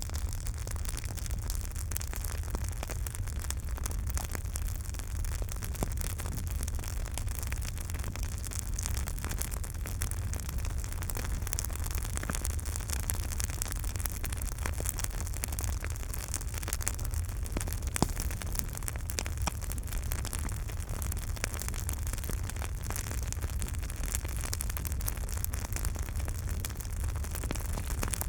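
Campfire burning, with a steady low rumble and hiss under a scatter of small crackles and pops; one sharper pop stands out about two-thirds of the way through.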